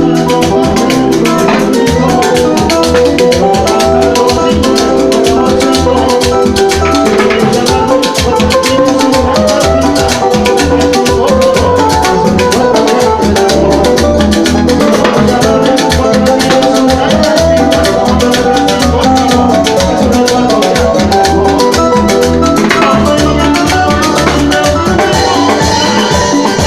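Latin dance band playing rumba-son live over a loud PA system, with dense, busy percussion over a steady beat.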